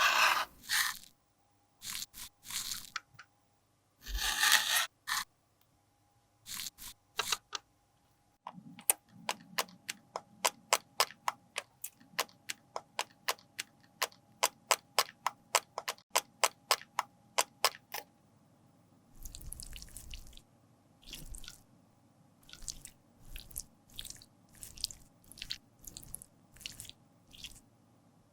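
Cosmetics being worked over by hand: several short scraping, crunching strokes, then a long run of sharp, evenly spaced taps, about three a second, then softer scraping strokes near the end.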